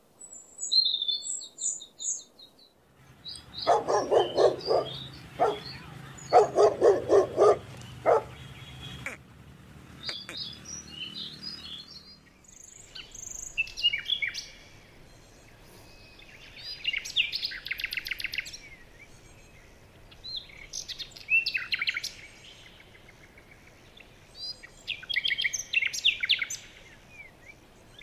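Birds chirping and calling in a series of short bursts of high, quick trills. A louder run of rapid, lower calls comes a few seconds in.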